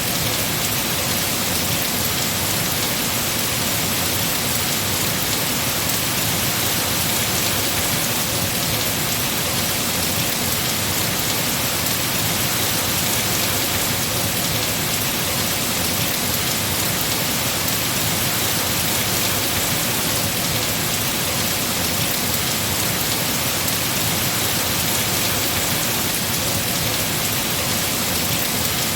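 Heavy rain falling steadily on tree foliage, a constant dense hiss with no single drops or thunderclaps standing out.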